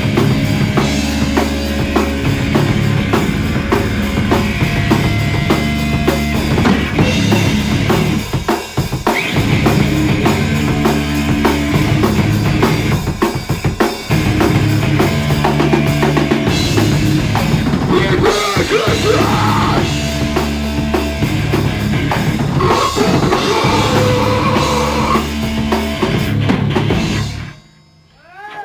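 Live underground rock band playing at full volume with drum kit, bass and distorted guitars, recorded on a phone. The song stops abruptly about a second before the end, leaving a few sliding guitar notes.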